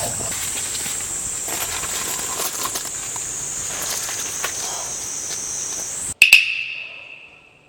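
Insects, likely cicadas or crickets, droning in one steady high-pitched band, with faint scattered clicks. Near the end the drone cuts off abruptly, and a sharp clink rings on and fades away over about a second and a half.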